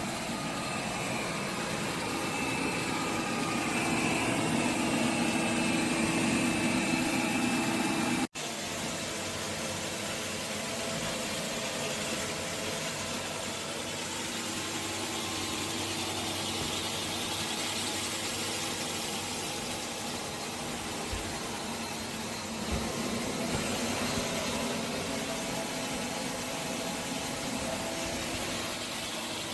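Robot vacuum cleaner running: a steady whir and hiss of its suction motor and brushes. It cuts off abruptly about eight seconds in and then carries on at a similar level.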